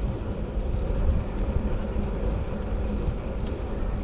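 Steady rumbling noise of riding along: wind buffeting the microphone, mixed with road noise.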